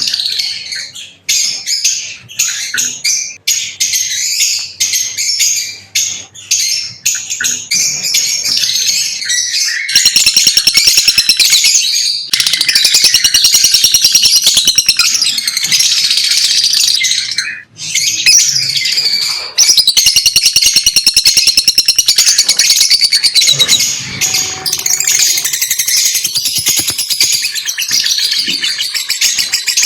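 Lovebirds chattering: a dense, unbroken run of rapid high-pitched chirps and squeaks. It grows louder and busier from about ten seconds in.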